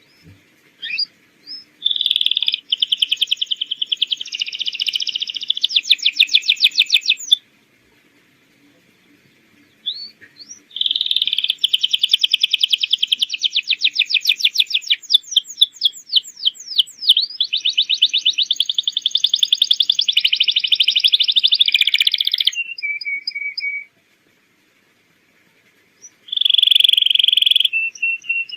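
Domestic canary singing: three long song phrases of fast rolling trills and rapidly repeated high notes, separated by pauses of about three seconds.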